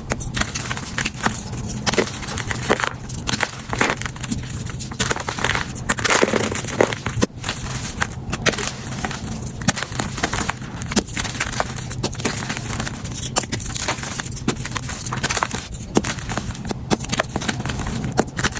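Blocks of powdery gym chalk being crushed, a steady run of dry, irregular crunches and crackles that grows denser about six seconds in.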